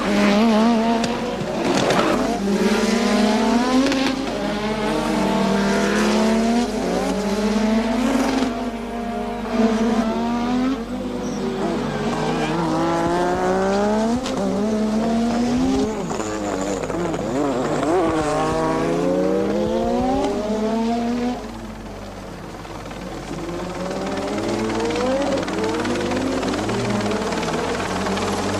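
1986 Formula One cars' 1.5-litre turbocharged engines running hard. Each pitch climbs and drops at every gear change. Several cars pass one after another, sometimes two at once, and the sound eases off for a few seconds about three quarters of the way through.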